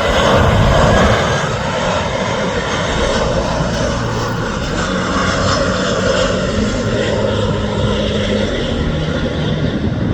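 Airliner coming in to land, its engines running with a steady rush of noise and a low hum.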